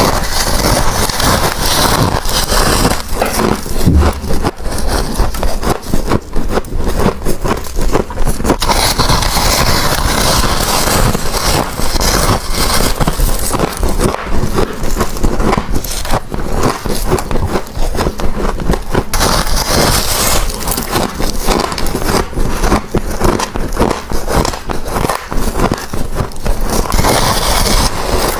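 Close-miked bites into a block of refrozen freezer frost: dense, continuous crunching and crackling of ice.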